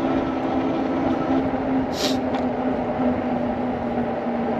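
An eAhora electric bike riding along: a steady low motor whine over wind and tyre noise on a chest-mounted camera's microphone, with a brief hiss about two seconds in.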